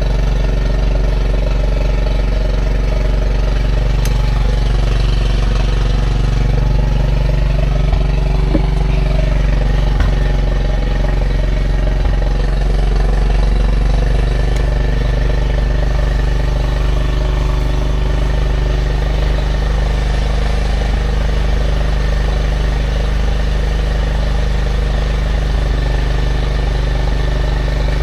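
A steady low mechanical drone, like an engine or motor running at constant speed, with a few faint knocks.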